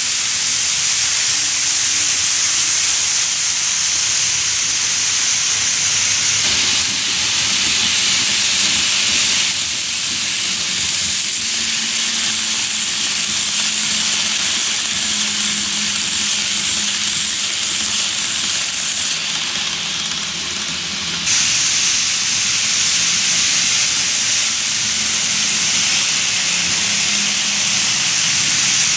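N gauge model train running along the layout track: a steady high hiss of wheels on rail with a faint motor hum underneath. The sound changes abruptly a few times, as at cuts between shots.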